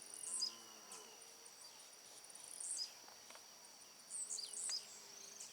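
Faint steady high insect trill, like a cricket, with a wild bird's short high call that slides down in pitch, heard three times.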